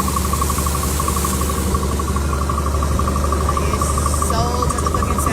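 A continuous rapid high trill, insect-like, over a steady low hum, with a few short chirps about four seconds in.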